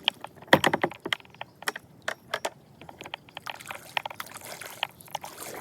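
Fishing tackle being worked on a kayak: a string of sharp, irregular clicks and knocks, densest about half a second in, with faint water sounds.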